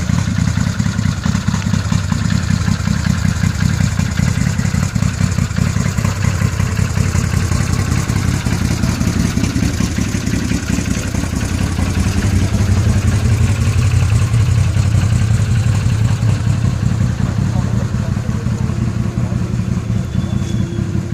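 A vehicle engine running steadily at idle, its level swelling slightly about midway, with voices in the background.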